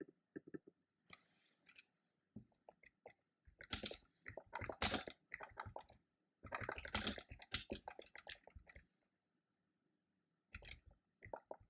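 Typing on a computer keyboard: bursts of rapid keystrokes for a few seconds at a time, with short pauses between bursts.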